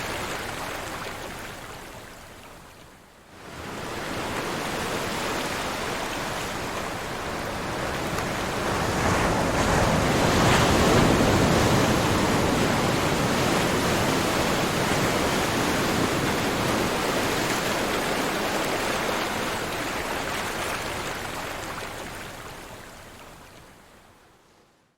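Ocean surf: a steady rush of waves that dips nearly away about three seconds in, swells back to its loudest around the ten-second mark, then slowly dies down near the end.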